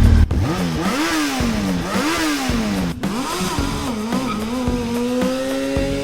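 Motorcycle-style engine sound revving, its pitch sweeping up and down about once a second for the first three seconds, then settling into a steady drone.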